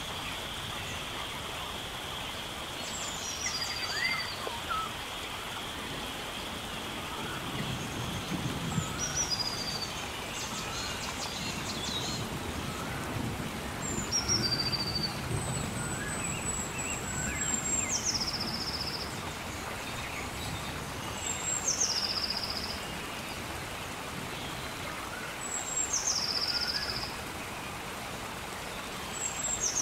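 Steady rain with a bird repeatedly giving a high call that drops sharply in pitch, about every four seconds and growing louder toward the end. A couple of soft low rumbles come around the middle.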